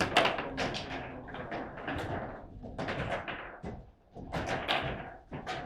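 Table football play: a rapid, irregular run of hard knocks and clacks as the ball is struck by the rod figures and the rods bang against the table.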